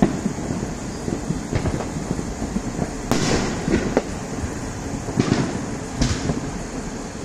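Neighbourhood fireworks going off at a distance: about half a dozen bangs at irregular intervals, the first the loudest, one trailing off for about half a second, over a steady low rumble.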